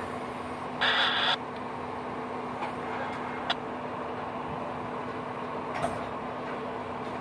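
Freight train's tank and hopper cars rolling past with a steady rumble of wheels on rail. A brief loud screech about a second in, and a couple of sharp clicks later.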